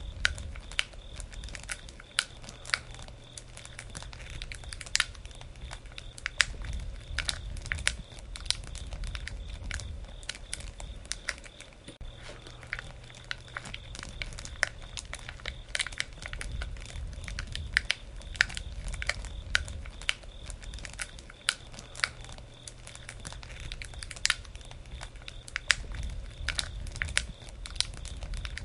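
Wood fire crackling, with frequent irregular sharp pops over a low steady rumble of the flames.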